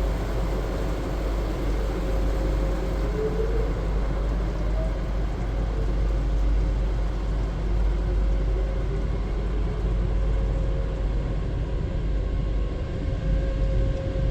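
WashTec SoftLine 2 tunnel car wash machinery heard from inside the car: a steady rumble and rush of the final rinse and dryer stage, with a faint steady hum.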